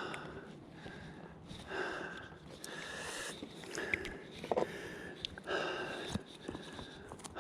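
A man breathing heavily in and out through the nose and mouth, in repeated breaths about a second apart, with a few short sharp clicks between them.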